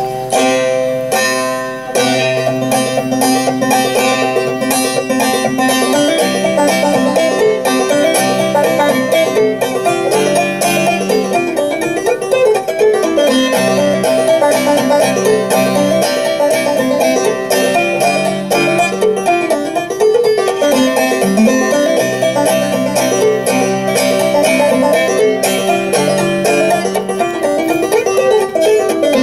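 Clawhammer banjo playing an old-time tune: a fast, even rhythm of picked notes over ringing drone strings.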